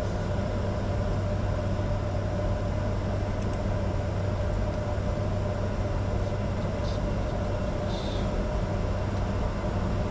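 Steady cockpit noise of a Bombardier Challenger 605 business jet: its twin jet engines running with a constant low hum and a steady mid-pitched tone under an even rush of noise, with two faint ticks about seven and eight seconds in.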